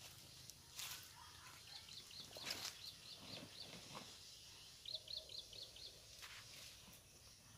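A small bird calling faintly: two runs of quick, evenly repeated high chirps, the second shorter, with a few brief rustles in between.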